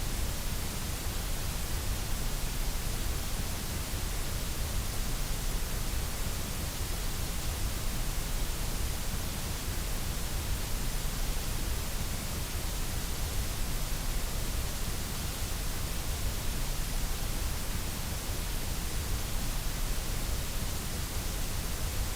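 Steady white noise: an even, unchanging hiss across all pitches, used as a sleep and relaxation sound.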